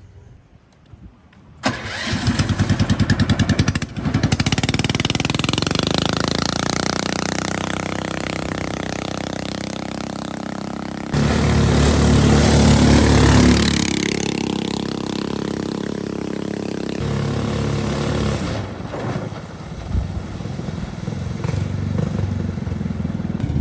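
Small 8.5 HP boat engine starting up about two seconds in and running steadily. It gets louder about eleven seconds in, then eases back.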